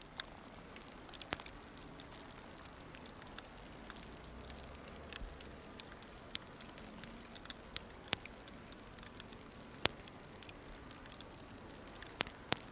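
Blizzard: a steady hiss of wind-driven snow with scattered, irregular sharp ticks of snow striking the microphone.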